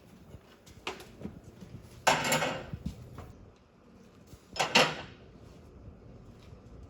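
Metal being handled: a light knock, then two short clattering scrapes of steel, the loudest about two and five seconds in.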